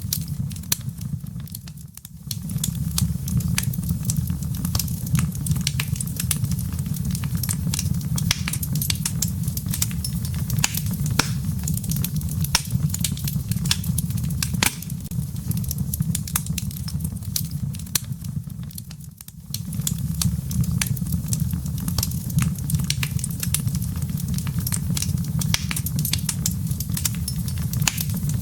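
Wood fire in a fireplace, embers crackling with dense, irregular snaps and pops over a steady low rumble of the flames. The crackling dips briefly twice, about two seconds in and again near the twenty-second mark.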